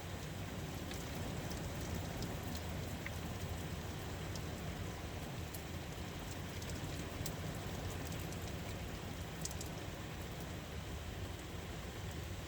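Steady rain falling, with scattered sharp ticks of single drops, blown by the wind against a window.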